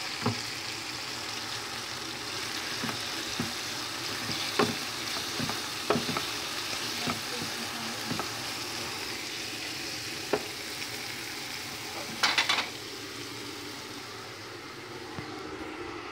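Food sizzling steadily in hot oil in a pan, with a utensil now and then tapping and scraping the pan as it is stirred, including a short flurry of taps about twelve seconds in.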